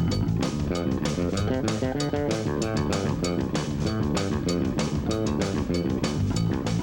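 Hard rock band playing: electric guitar and bass guitar over a steady drum kit beat.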